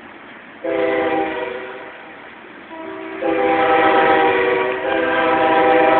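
Diesel locomotive's multi-chime air horn sounding several blasts: a short one under a second in, then longer, louder blasts from about three seconds in.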